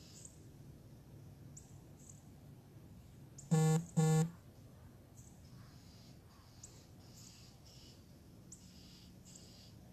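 Two short, loud beeps about half a second apart, near the middle, over faint high bird chirps.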